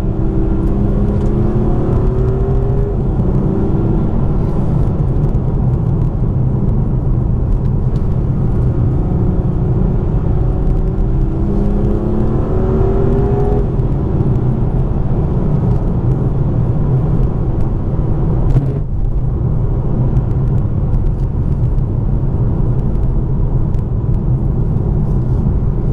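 BMW M2 Competition's twin-turbo straight-six heard from inside the cabin over a steady road and tyre rumble. The engine pulls up through the revs twice, once at the start and again about ten seconds in, each time with a rising tone that then drops away.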